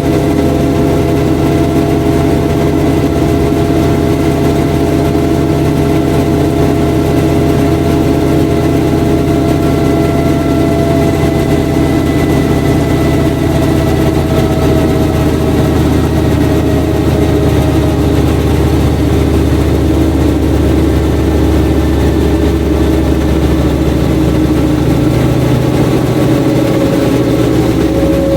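Washing machine running: a loud, steady motor hum with a whine whose pitch drifts slowly lower partway through.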